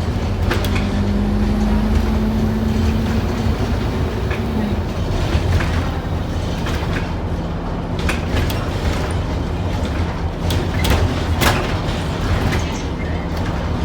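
Scania N230UD OmniCity double-decker bus heard from inside on the move: its five-cylinder diesel runs with a steady low drone. A steady whine sounds through the first few seconds, and scattered rattles and clicks come in the second half.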